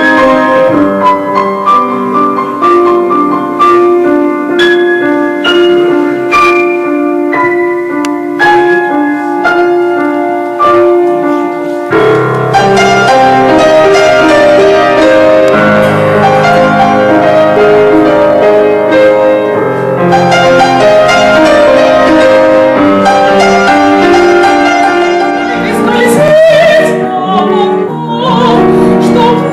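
Piano playing an accompaniment in separate struck notes. About twelve seconds in, fuller held chords take over. Near the end, a singing voice with vibrato comes in.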